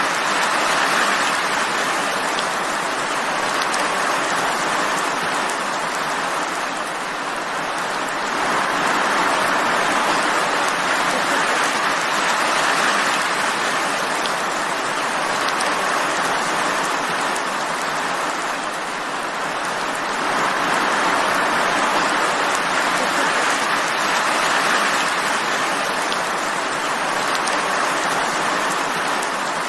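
Steady rain falling: a dense, even hiss that swells and eases slightly every several seconds.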